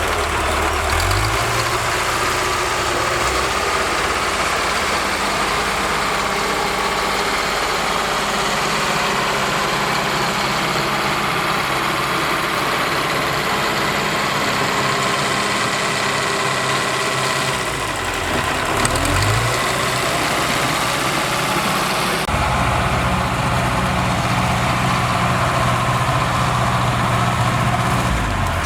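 Diesel engine of a bulldozer running steadily under work. The engine note shifts briefly a couple of times, and in the last quarter it settles into a heavier, deeper running.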